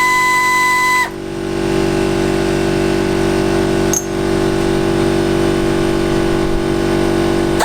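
A power tool, likely a drill or driver undoing the sump bolts, runs steadily with a constant hum, giving a short click about four seconds in. A steady whistle-like tone sounds for the first second, then cuts off.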